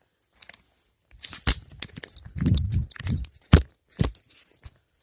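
Crunching and rustling through dry leaf litter and brush, as of footsteps, with several sharp snaps such as breaking twigs. The loudest snap comes about three and a half seconds in.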